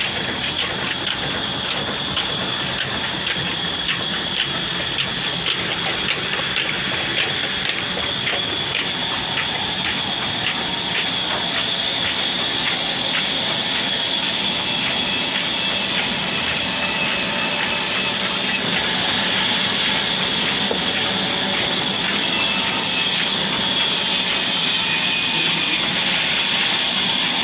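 Old Ruston stationary diesel engine running steadily, a regular beat of knocks over a steady hiss.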